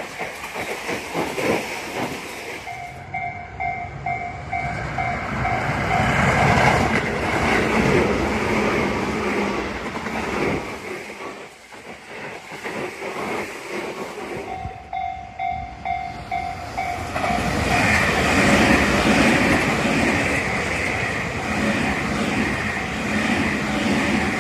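Tobu Tojo Line electric trains running past with rail and wheel noise, swelling and fading as they pass. A repeating ding sounds at a steady pace twice, first a few seconds in and again about halfway through.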